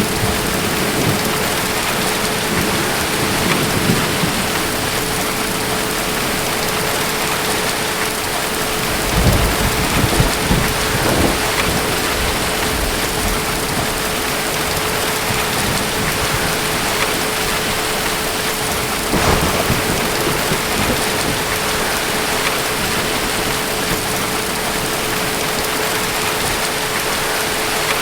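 Steady rain hissing without a break, with low thunder rumbling twice: a longer roll about nine seconds in and a shorter one near twenty seconds.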